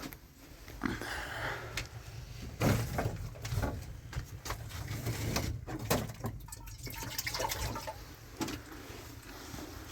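Water splashing and pouring, with irregular knocks and clicks of objects being handled.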